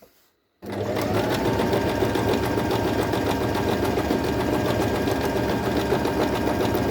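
Singer M1605 electric sewing machine stitching through fabric at a steady speed, run from its foot pedal on a newly selected stitch setting. It starts suddenly about half a second in, with a fast, even needle rhythm.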